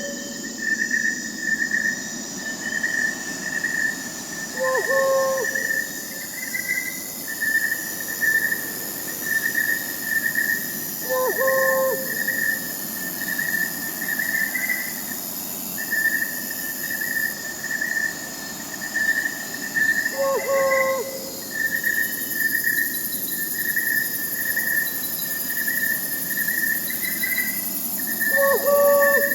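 Crickets chirping in a steady high pulsing trill, with an owl hooting four times at intervals of six to nine seconds, each hoot short and lower-pitched.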